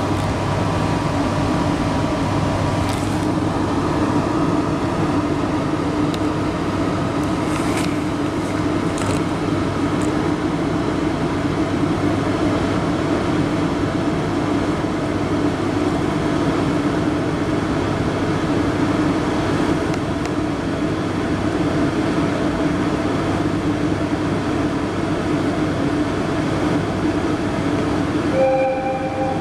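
Steady hum and rumble of a train standing at a platform, heard from inside the carriage as its onboard machinery runs. A brief electronic tone sounds near the end.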